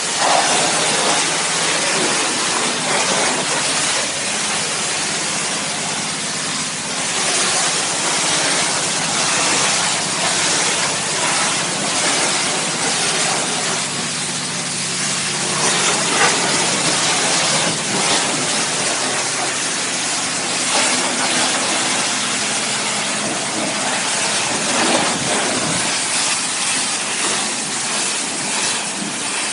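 High-pressure washer at a self-service car wash spraying steadily: a continuous loud hissing spray, with a low steady hum underneath.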